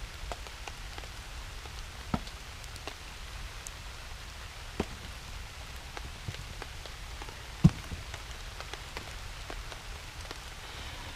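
Steady rain with scattered drips and drops ticking. A few sharper taps stand out, the loudest about eight seconds in.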